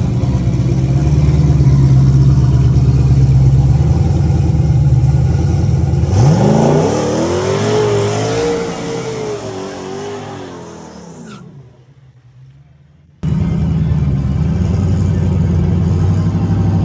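LS-swapped V8 Mustang drag car running at a low rumble, then launching about six seconds in, its engine note climbing steeply and fading away as the car runs off down the track. After a sudden cut, a steady engine rumble starts again.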